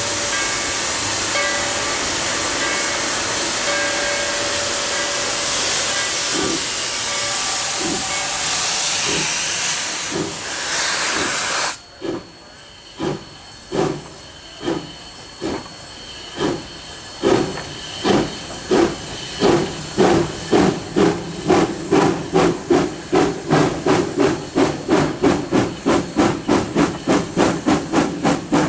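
Narrow-gauge steam locomotive working: a loud hiss of venting steam with a faint steady whistle-like tone for about twelve seconds. This cuts off suddenly and gives way to exhaust chuffs that quicken from about one a second to about three or four a second as the engine gathers speed.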